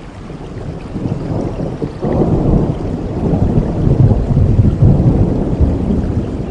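Steady rain with a long rolling rumble of thunder that swells about two seconds in and keeps rumbling.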